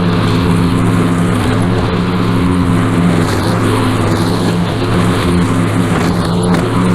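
Small gasoline engine of a lawn-care power tool running steadily at a constant speed.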